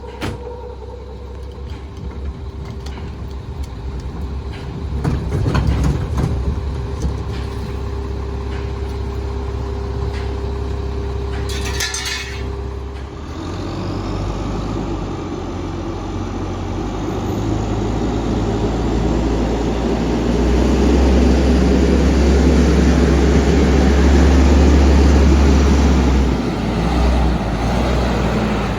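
Rear-loader garbage truck's diesel engine running with a steady whine, a short air-brake hiss about halfway through, then the engine working harder and louder for the last several seconds.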